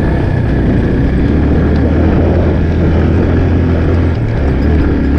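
Motorcycle engine running steadily while riding, a strong low drone under a rushing haze.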